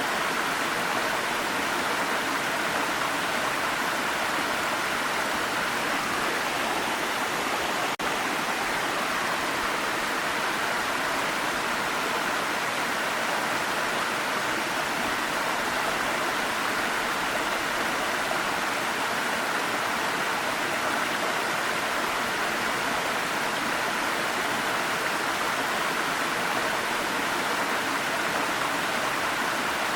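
Waterfall rushing: a steady, even wash of falling water with no birds or other sounds over it, and a split-second break about eight seconds in.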